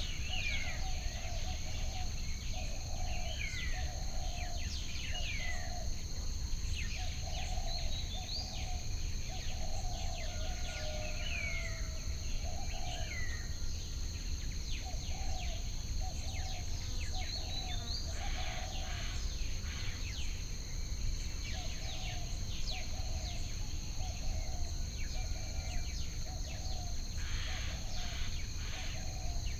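Nature ambience: birds chirping with short sliding calls, runs of low repeated calls, and a steady high insect drone, over a low steady rumble.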